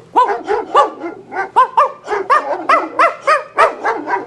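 Dog barking in a rapid series of short, high barks, about three or four a second.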